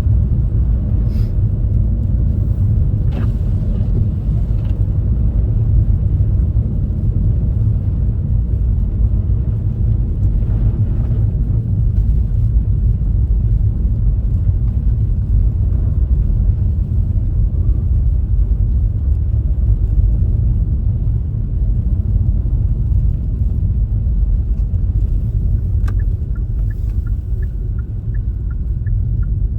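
Steady low road and engine rumble inside a moving car. Near the end a light, regular ticking starts, about two ticks a second.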